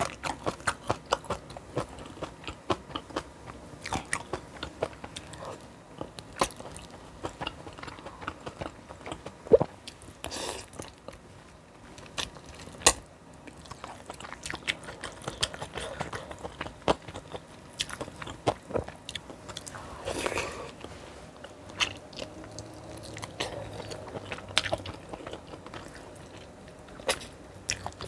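A person chewing and biting food with many quick, crisp crunching clicks.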